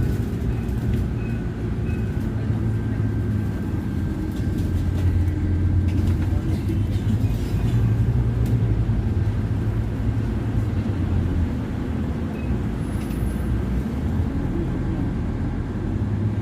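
Scania Citywide CNG city bus running, a steady low engine drone that grows louder about four seconds in and eases off again after about eleven seconds.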